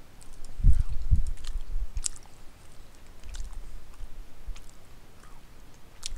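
A person chewing a mouthful of pot roast with the mouth closed: soft low thumps and short moist clicks, strongest about a second in, then sparser quieter clicks.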